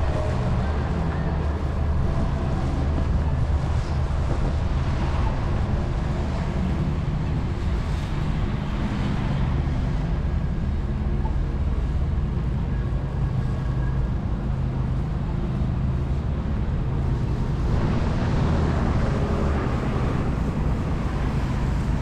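Steady low rumble of city street noise: traffic mixed with wind buffeting the microphone, swelling a little a few times.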